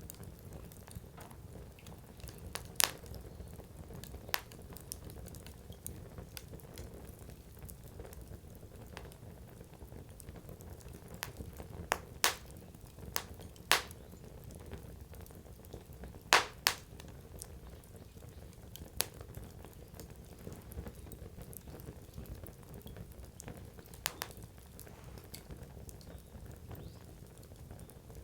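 Wood fire crackling, with sharp irregular pops from the burning firewood over a steady low rush of the flames. The loudest pops come about 3 s in, in a cluster near the middle, and a close pair around 16 s.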